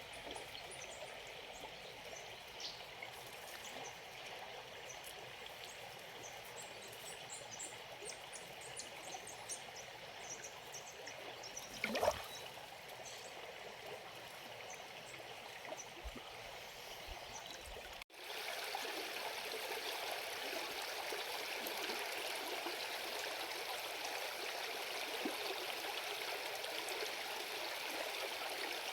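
River water flowing steadily over rocks. A short sharp noise stands out about twelve seconds in, and the flow cuts abruptly about eighteen seconds in to a slightly louder rush of water.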